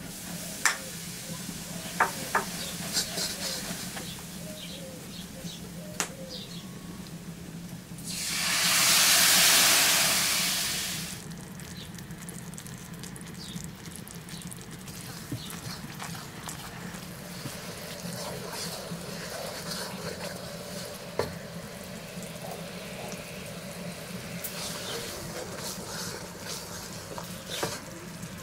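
Food frying and sizzling in a hot pan. There are a few sharp clicks in the first three seconds. About eight seconds in, a loud burst of hissing swells and dies away over about three seconds.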